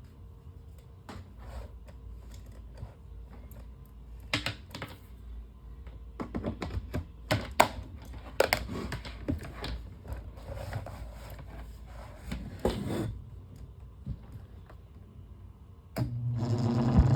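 Clicks, knocks and scrapes of a plastic fan blade being handled and fitted onto the fan's motor shaft, then near the end the fan is switched on and runs with a steady low hum and rattle. The blade is warped, so the fan, running without its cages, vibrates.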